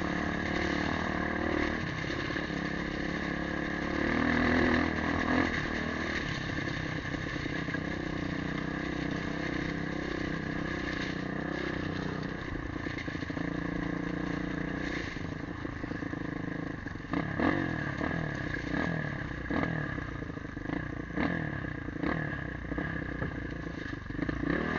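Motorcycle engine running while being ridden, its pitch rising and falling with the throttle and swelling briefly about four seconds in. From about two-thirds of the way in, sharp knocks and clatter join it.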